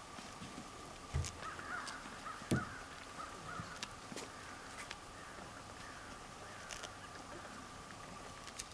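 A bird calls several times in a harsh, wavering run from about a second and a half in to about three and a half seconds, with two dull thumps near the start of the calls. A faint steady tone runs underneath.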